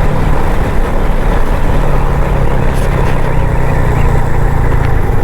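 Motorcycle engine running steadily under a constant loud rushing noise.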